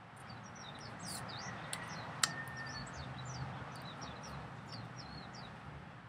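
A small bird chirping in a quick series of short, high notes over steady outdoor background noise, with one sharp click about two seconds in.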